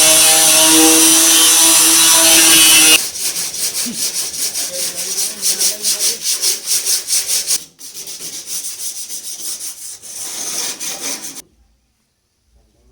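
A power tool runs steadily at one pitch, then stops about three seconds in. Rapid hand-sanding strokes follow, sandpaper rubbing back and forth about four times a second, getting softer near the middle and stopping suddenly.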